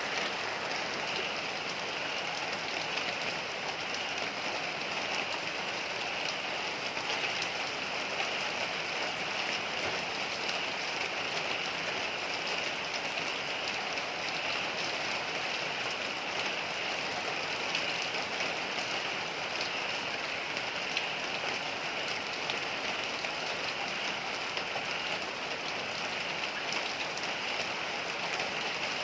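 Heavy rain falling steadily, a dense, even hiss of drops striking a surface.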